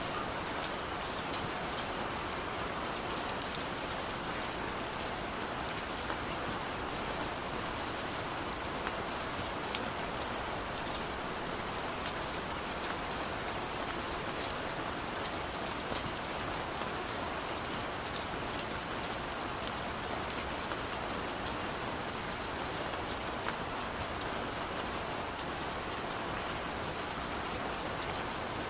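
Heavy rain falling steadily, with many small sharp drop ticks scattered through it.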